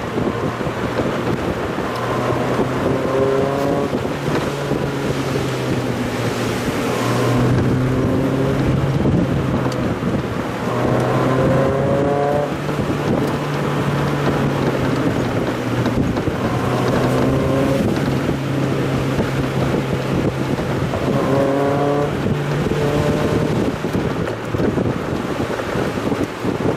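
Mazda Roadster's inline-four engine pulling through the gears, its note rising about four times under acceleration between shifts. Heavy wind and road noise runs under it.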